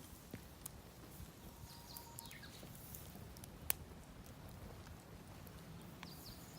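Campfire of damp, poorly drying firewood burning quietly, with scattered faint crackles and one sharp pop about three and a half seconds in.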